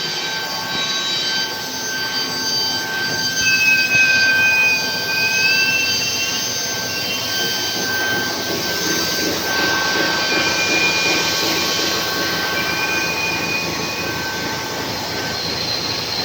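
Pipe-making factory machinery running steadily: a loud mechanical din with several high whines, and a short squeal that wavers in pitch a few seconds in.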